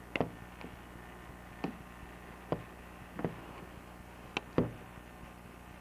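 Light, irregular knocks and taps against the glass pane of a door as the person filming bumps into it, about seven in all, with the loudest near the start and about four and a half seconds in.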